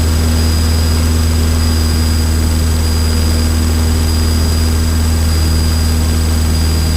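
Single-engine Cessna trainer's piston engine and propeller at full power in the climb just after takeoff: a loud, steady drone.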